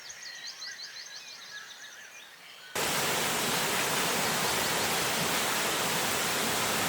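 Faint high chirping over a quiet forest background, then, about three seconds in, a sudden switch to the steady loud hiss of heavy monsoon rain.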